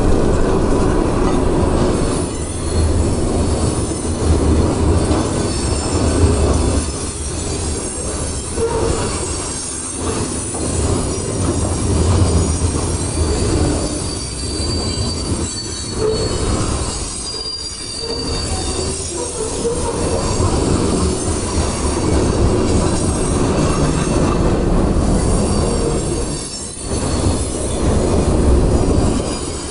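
Freight cars rolling past close by: a steady heavy rumble and clatter of steel wheels on the rails, with thin high wheel squeal now and then, clearest about 14 to 17 seconds in.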